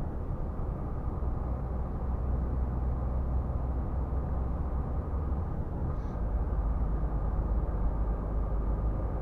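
Scania R450 truck's 13-litre straight-six diesel running steadily at highway speed, a low drone mixed with tyre and road noise.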